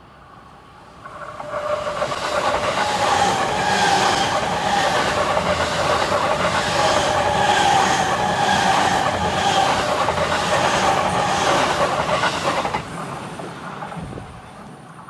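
Electric passenger train passing close by: wheels clattering over the rail joints in a steady rhythm with a steady whine from the running gear. The sound builds up about a second in, drops away sharply near the end and fades out.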